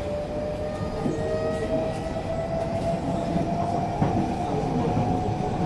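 Inside a moving MRT train carriage: a steady rumble and rail noise, with a thin whine rising slowly in pitch.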